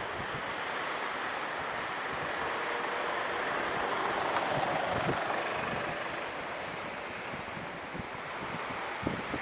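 A jet airliner passing, its engine noise swelling to a peak about halfway through and then fading, over surf breaking on the beach and wind buffeting the microphone.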